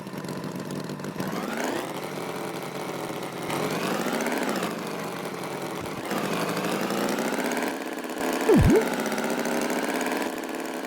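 Cartoon tractor engine sound effect running, its pitch rising and falling twice as if revved. About two-thirds of the way through, a quick, loud swooping sound effect dips and rises in pitch.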